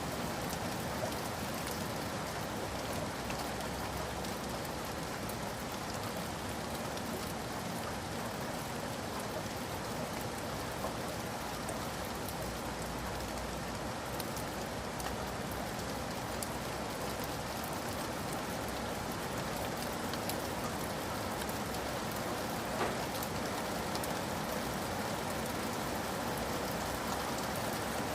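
Steady rain falling, an even hiss with scattered drop ticks and one slightly louder drop about 23 seconds in.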